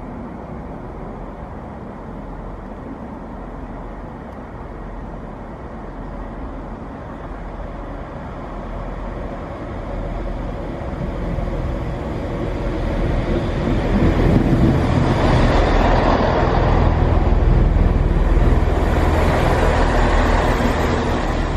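Two-coach Chiltern Railways diesel multiple unit running, its engine and wheel rumble growing louder over about fourteen seconds, then holding loud before cutting off abruptly at the end.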